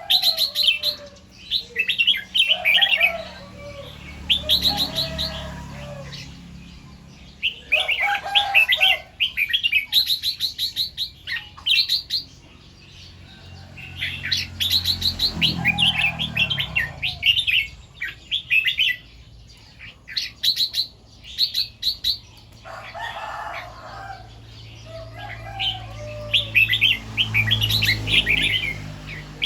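Red-whiskered bulbul singing its chattering, whistled phrases, some doubled or tripled. The song comes in about half a dozen bursts of quick notes separated by short pauses.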